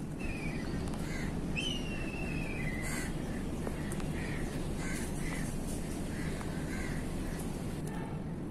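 Birds calling: a scatter of short calls and, about two seconds in, one long falling whistle, over a steady low rumble of background noise.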